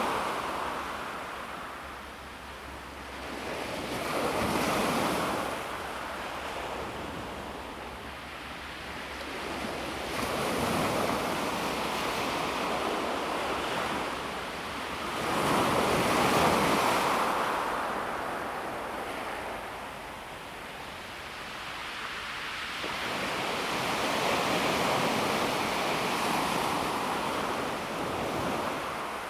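Calm sea waves breaking gently on a pebble beach. Each wave rushes in and draws back over the stones with a hiss, swelling and fading every few seconds; the loudest comes about halfway through.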